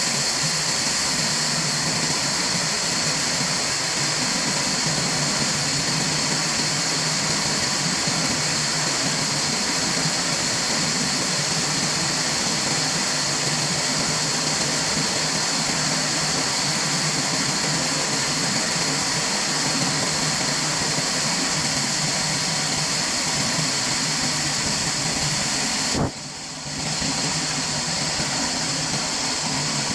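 Steady, unchanging machinery noise with a strong hiss, dropping out briefly about four seconds before the end.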